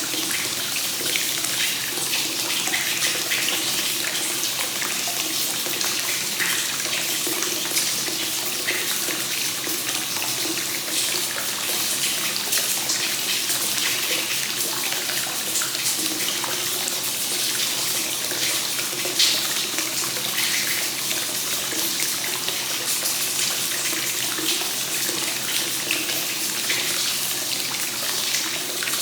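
Hot-spring water flowing continuously from the spout into a bath, splashing and gurgling steadily onto the water's surface.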